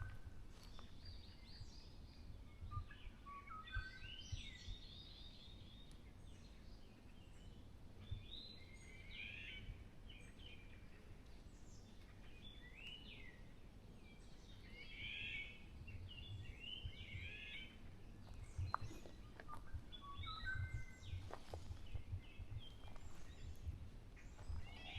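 Several songbirds singing and calling in a forest, short chirping and warbling phrases overlapping one another throughout, faint against a low rumble of background noise.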